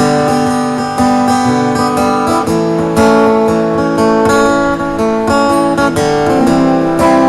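Acoustic guitar strumming chords, playing the instrumental intro of a song.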